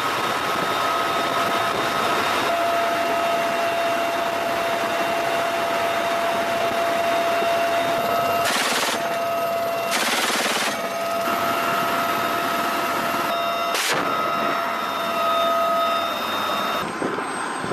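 UH-1Y Venom helicopter running with a steady turbine whine, with two short bursts of machine-gun fire about halfway through and a single sharp crack a few seconds later.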